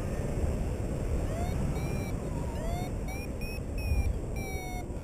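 Paragliding variometer beeping in short tones of shifting pitch, signalling lift, over wind rushing across the microphone in flight.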